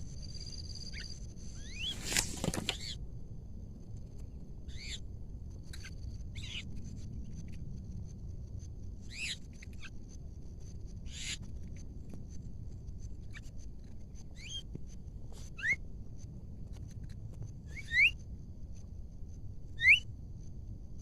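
Birds calling in short, sharp whistled notes every second or two, with a harsh burst about two seconds in and the loudest notes near the end as quick rising whistles. A steady high-pitched insect drone runs underneath.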